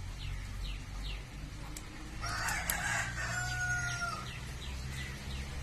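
A rooster crowing once, starting about two seconds in and lasting about two seconds, over short repeated chirps of a small bird and a steady low hum.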